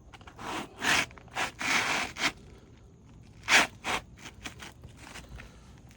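Asphalt roof shingle scraping against the gritty shingles around it as it is slid back into place, in a run of short rasps with the loudest about three and a half seconds in, followed by lighter ticks and rustles.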